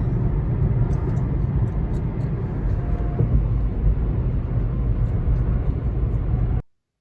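Car driving: a steady low rumble of engine and road noise that cuts off suddenly about six and a half seconds in.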